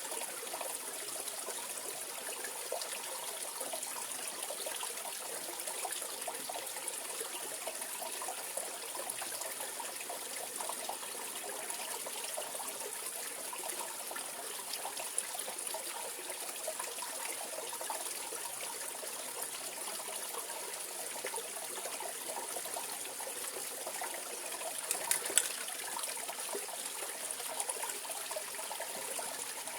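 Mountain valley stream running over rocks: a steady, even babble and trickle of water, with a brief louder burst of splashing about 25 seconds in.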